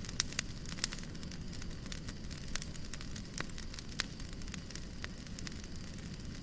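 Wood fire crackling in a fireplace: a steady low rumble and hiss with frequent irregular pops and snaps.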